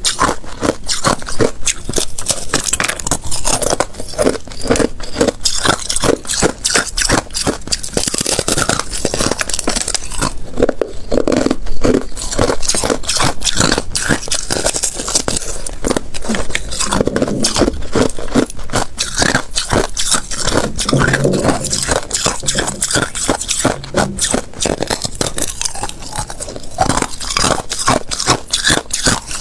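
Thin ice being bitten and chewed, a steady run of sharp crunches and crackles with no pauses.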